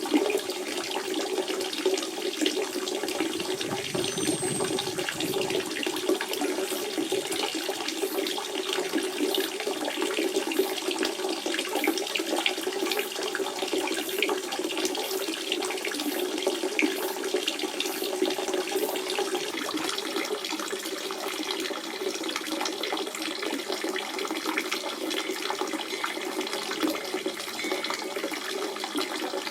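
Natural spring water running in a steady, continuous flow, with a dense patter of small splashes.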